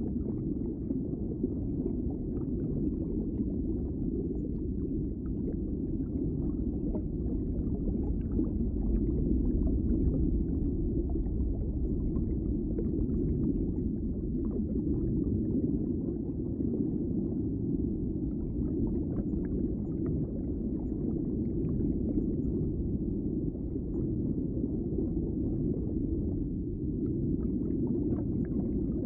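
Underwater ambience: a steady, muffled low rumble of water with faint scattered clicks.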